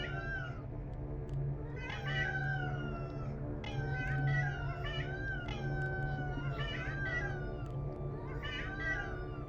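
Cats meowing over and over, one drawn-out meow about every second and a half, each bending in pitch.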